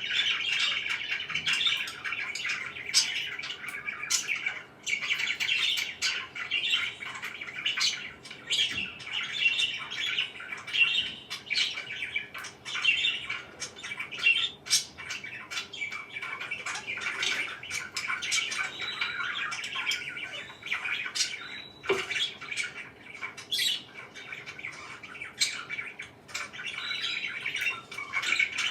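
Several pet parakeets chattering without pause, a dense mix of quick chirps and squawks.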